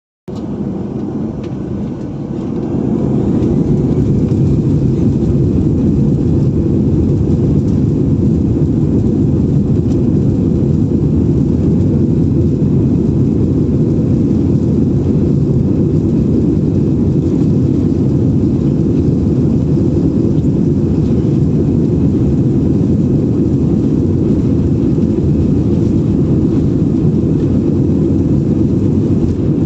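Airliner engine noise: a loud, steady low rumble that builds over the first few seconds and then holds level.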